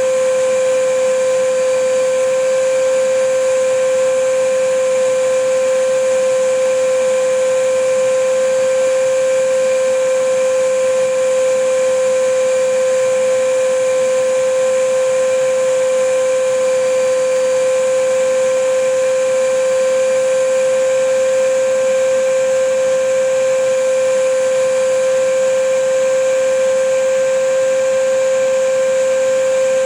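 Vacuum cleaner running steadily: a constant motor whine over an even rush of air, with no change in pitch or level.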